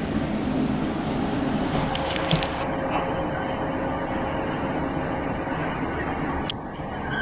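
Diesel passenger train running into a station, heard from inside the carriage: a steady rumble of wheels and engine, with short knocks about two seconds in and again near the end and a faint steady tone underneath.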